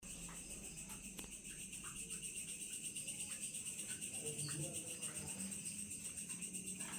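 Night insects chirring in a steady, fast, even pulse that never stops, with a faint low hum underneath.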